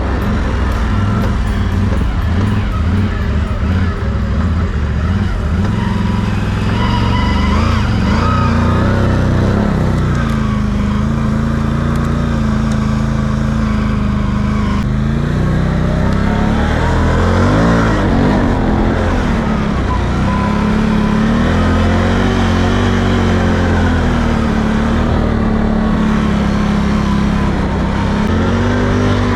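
2021 Can-Am Outlander 850 XMR ATV's V-twin engine running under way, its note rising and falling as the throttle is opened and eased off.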